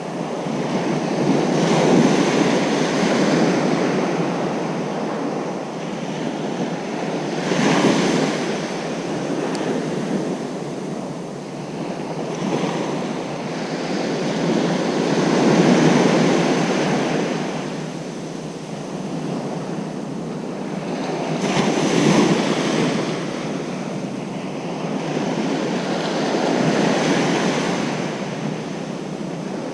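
Ocean surf breaking on a beach, waves swelling and washing in about every six seconds, with some wind noise on the microphone.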